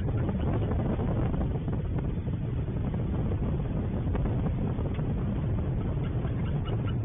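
Wind buffeting the microphone of an outdoor pond camera: a steady, fluctuating low rumble that starts abruptly and covers everything else.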